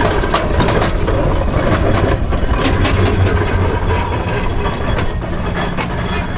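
Steam road engine running, with a steady low rumble and a rhythm of exhaust beats.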